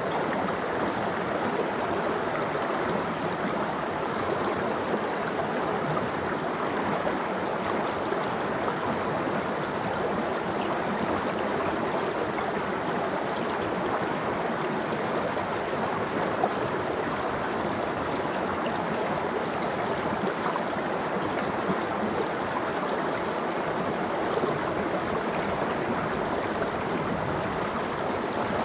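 Cold mountain stream running steadily over rocks, a continuous splashing and gurgling flow.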